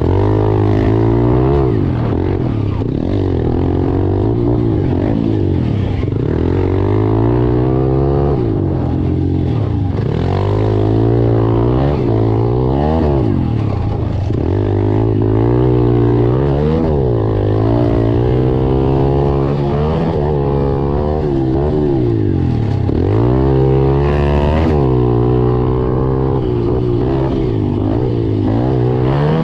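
Pit bike engines revving, their pitch climbing and dropping again every couple of seconds as the bikes accelerate and back off around a motocross track.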